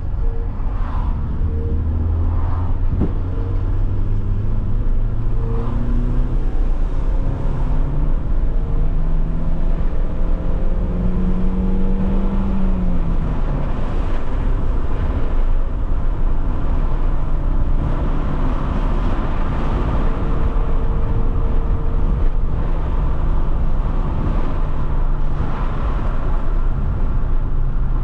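Alfa Romeo 156 1.8 Twin Spark's four-cylinder engine pulling the car along, with steady road noise. The engine note climbs steadily for several seconds, drops off about halfway through, then holds steady.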